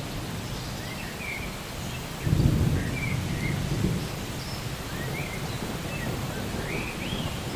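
Steady rain with a low rumble of thunder that sets in suddenly about two seconds in. A bird chirps several times over it.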